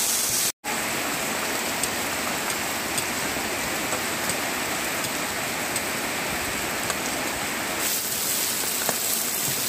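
Steady hiss of heavy rain falling, with a brief dropout to silence about half a second in.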